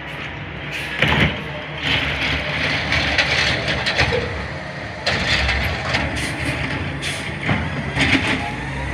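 Garbage truck engine running steadily, with several knocks and clatters and stretches of hissing over it.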